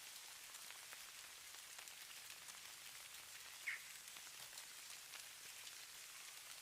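Faint, steady hiss of falling snow with light scattered ticks. A single brief high chirp sounds about halfway through.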